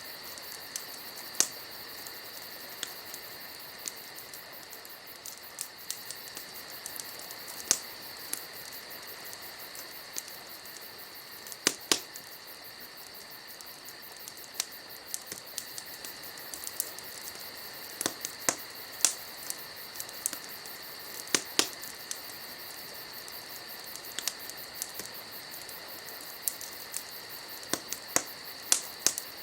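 Wood fire crackling, with irregular sharp pops and snaps at uneven intervals, a few clearly louder than the rest. Steady insect chirring runs underneath.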